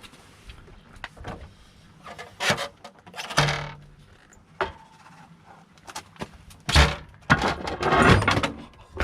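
Irregular metallic clinks and scrapes of hand tools and parts while a motorcycle's front wheel and tyre are being worked on, with longer, louder scraping stretches about a third of the way in and again near the end.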